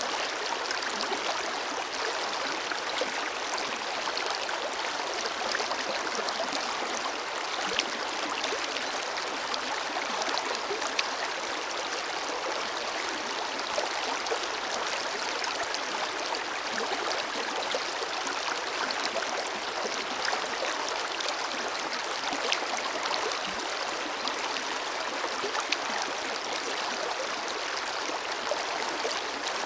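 River water flowing over stones in a forest stream: a steady rushing with small splashes and gurgles throughout.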